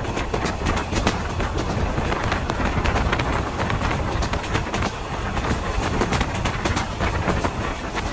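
Korotoa Express passenger train running on the rails: a steady rumble with many irregular clicks and knocks from the wheels over the track.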